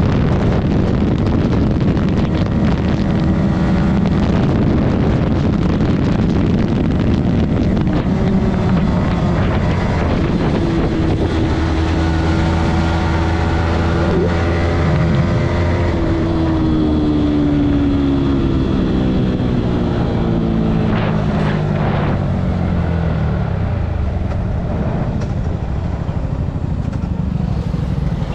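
Yamaha MT-15 motorcycle's single-cylinder engine running under way, with heavy wind noise on the microphone. The engine note holds steady, then falls in pitch over several seconds past the middle as the bike slows.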